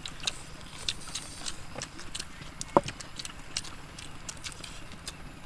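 Several people eating by hand: wet chewing and lip-smacking on fried pork belly, heard as many small irregular clicks, with one sharper click about three seconds in.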